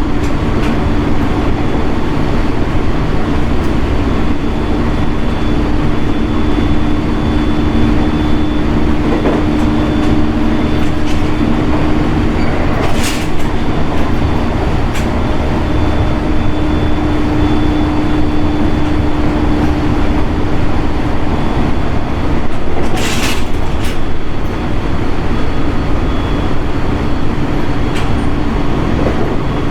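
Running sound inside a JR East 701 series (1000 subseries) electric train car under way: a steady rumble of wheels on rail with a steady low motor hum. Two brief sharp clatters come through, one a little before halfway and another about three-quarters of the way through.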